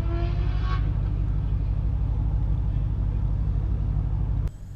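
Ford Mustang's engine idling, heard from inside the cabin: a steady low rumble with an even beat. It cuts off suddenly shortly before the end.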